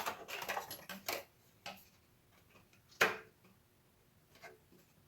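Short sharp metallic clicks and taps from hand work on a riding-mower deck: several in quick succession in the first second, then one louder click about three seconds in and a faint one later.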